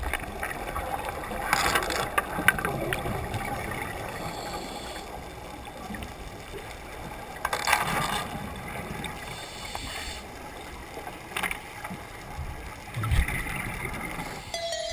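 Steady rushing water noise with a few louder surges.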